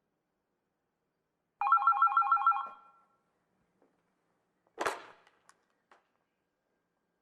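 A brief ringing trill: several tones pulsing rapidly, about eight times a second, for about a second. A couple of seconds later comes one short noisy burst, with silence around both.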